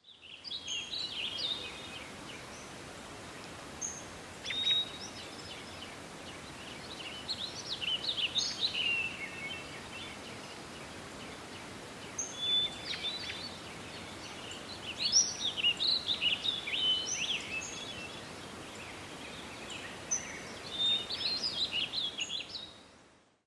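Songbirds singing in repeated bursts of chirps and short trills over a steady background hiss; the sound fades out near the end.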